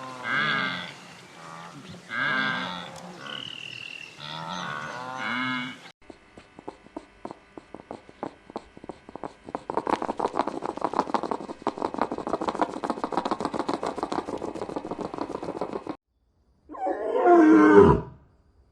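A series of animal calls: about four short pitched, wavering calls, then a long run of quick rhythmic clicking sounds, and near the end one loud roar that falls steeply in pitch.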